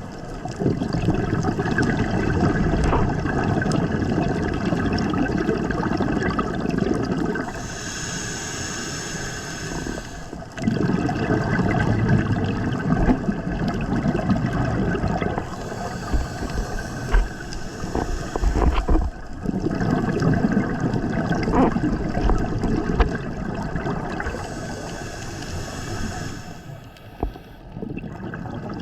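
Scuba diver breathing through a regulator underwater: three long exhalations of rumbling, gurgling bubbles, each followed by a shorter hissing inhalation.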